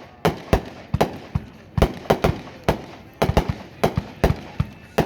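World Class Give Me Liberty multi-stage consumer firework cake firing: a rapid, uneven string of sharp bangs from its shots and bursts, about three a second.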